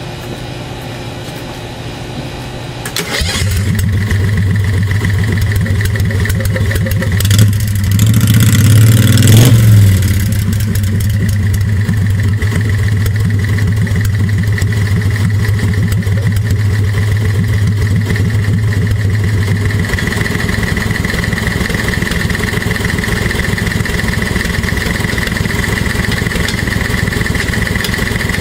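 Golf cart V-twin engine starting about three seconds in and running, revved up and back down once around eight to ten seconds, then running steadily.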